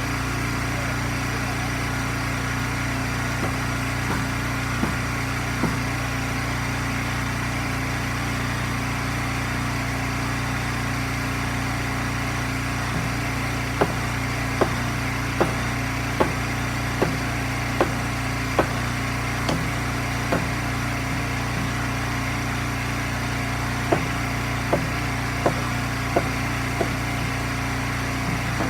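Gas engine of an Eastonmade hydraulic wood splitter running steadily, with a run of sharp knocks at an even pace of a little more than one a second, twice.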